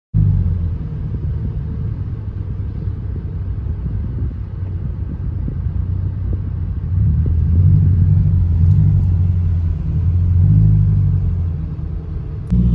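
A car engine with a deep exhaust rumble, idling and then revved up a little twice, about seven seconds in and again near ten seconds.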